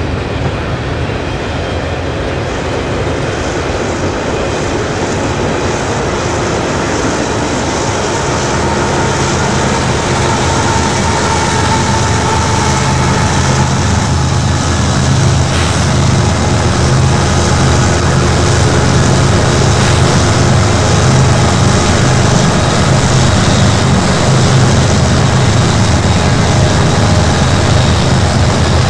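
Freight train passing: the steady rolling rumble of cars on the rails, joined in the second half by the deeper throb of CN's GE diesel locomotives, which grows gradually louder.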